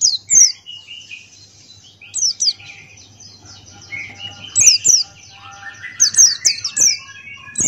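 White-eye (pleci Buxtoni) singing a long, fast song: bursts of quick, high, falling chirps, with softer, lower twittering between the bursts.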